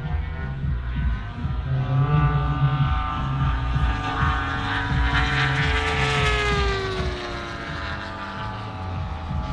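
Engine of a radio-controlled scale WW2 fighter model flying past, its propeller drone swelling and then dropping in pitch as it passes, about six seconds in.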